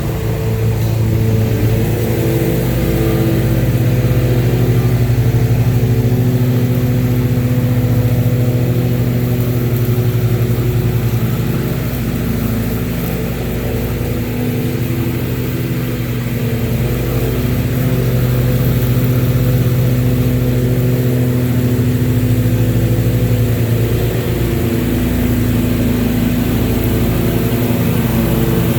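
Stand-on zero-turn mower engine running steadily under load, holding a constant speed, with a slight rise in pitch about two seconds in.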